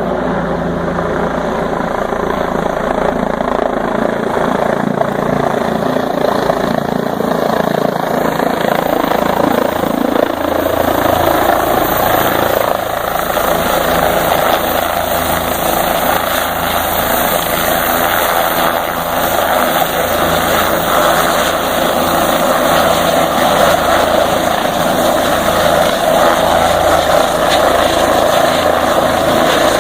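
A steady, loud engine drone with a constant low hum underneath.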